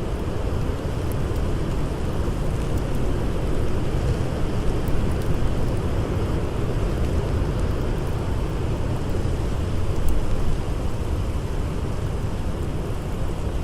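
Blizzard wind blowing steadily, a dense low rumble of noise, with a few faint scattered crackles from a campfire.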